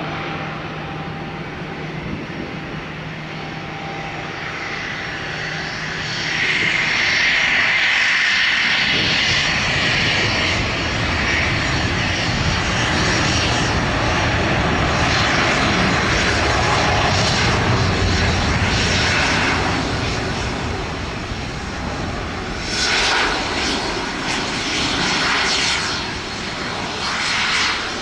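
Airbus A350-900's Rolls-Royce Trent XWB turbofans at takeoff power, a steady jet roar that gets much louder about six seconds in as the airliner passes, then swells and fades unevenly in the last few seconds.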